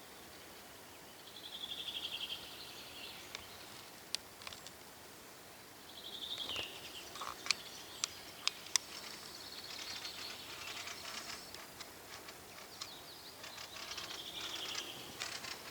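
Small birds calling: three short trilled calls of about a second each, one about a second and a half in, one about six seconds in that drops slightly in pitch, and one near the end, with quieter chattering between them. Several sharp clicks come in the middle.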